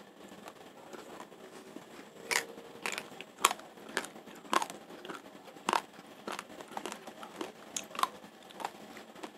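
Raw rice grains crunching between the teeth as they are chewed, sharp cracks about twice a second from about two seconds in, close to the microphone.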